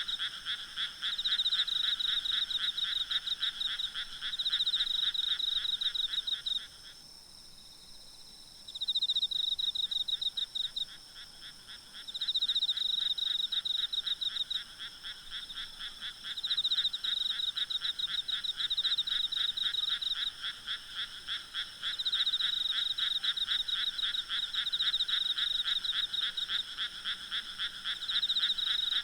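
A chorus of frogs calling in rapid pulsing trills, falling silent for about two seconds a quarter of the way in, over a steady high drone of insects.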